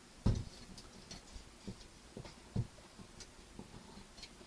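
Light knocks and clicks of plastic model-kit parts being handled and set down on a work surface, one firmer thump about a quarter second in, then scattered smaller taps.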